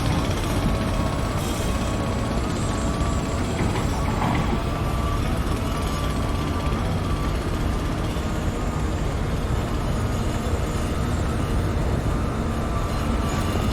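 Heavy construction machinery running steadily: a continuous low engine rumble with a faint, steady high whine above it.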